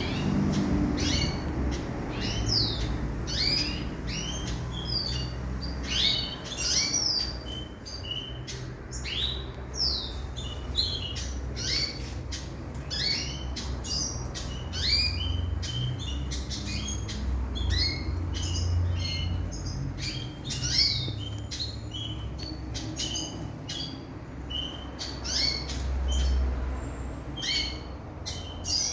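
A flock of caged aviary birds chirping and calling over each other. The calls are many short, sharp notes, many of them sliding down in pitch, with a steady low rumble underneath.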